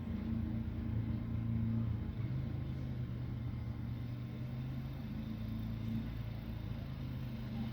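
An engine running steadily with a low hum; its pitch steps slightly about two seconds in.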